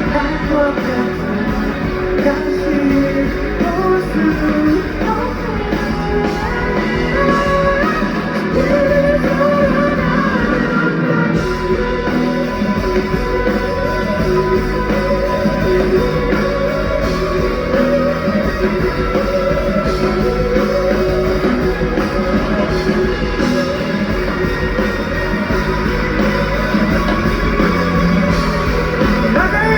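Rock band playing live: electric guitar over the band, with sung vocals.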